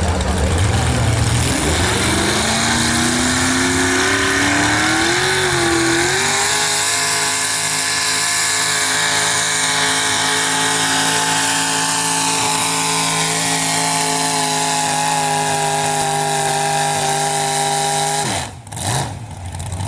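Pulling truck's engine revving up over the first few seconds, then held at high, steady revs under full throttle as it drags the sled, cutting off abruptly near the end as the throttle is released.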